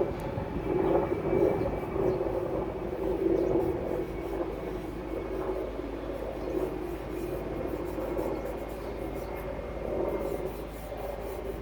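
Steady drone of a distant vehicle, swelling and fading slightly.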